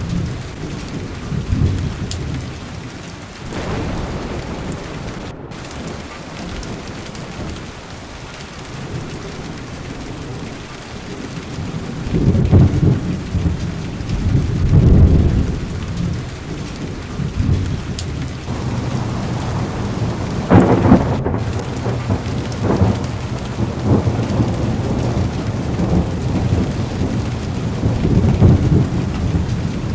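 Heavy rain pattering steadily on a car window, with thunder rumbling in slow waves underneath. A sharper, louder thunderclap comes about two-thirds of the way through.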